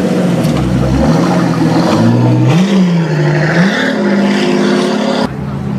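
Car engine running, its pitch rising and falling as it is revved, then settling higher, with an abrupt cut about five seconds in.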